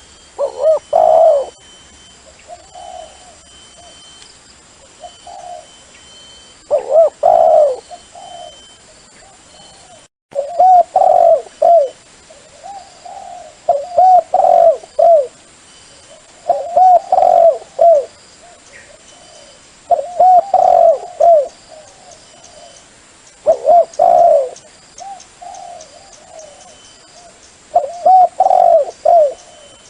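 Dove cooing: loud phrases of several coos recurring every few seconds, with fainter, shorter coos in between. It is a dove call played to lure wild doves for trapping.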